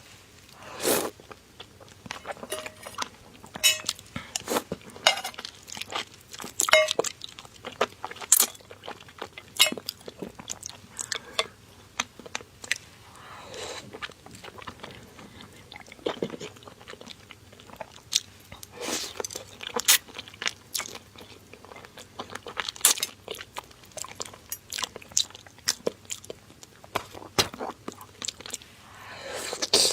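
A person eating close to the microphone: crunching bites and chewing, heard as irregular sharp crackles and clicks that come throughout.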